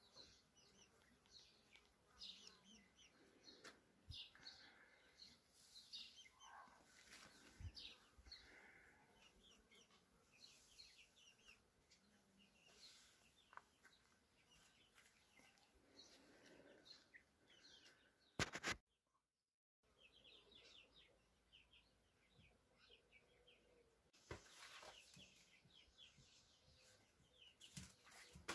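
Faint birds chirping and calling over near silence, with a single brief click about two-thirds of the way through, followed by a moment of total silence.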